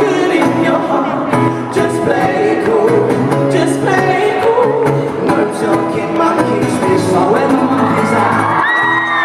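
A pop band playing live with singing. Near the end, high-pitched screams and whoops from the audience rise over the music.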